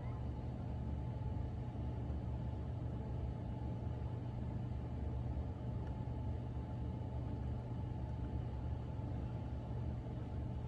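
Steady low rumble of a vehicle engine running, with a faint steady hum above it and no change in level.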